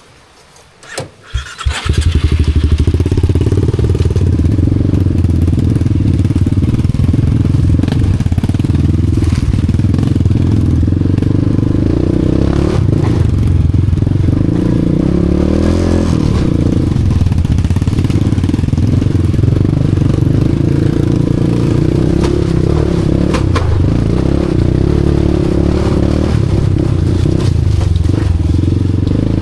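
Honda Wave 125 motorcycle engine, trail-modified, starting about a second in after a couple of short bursts, then running steadily at low revs. Occasional knocks come through over the engine.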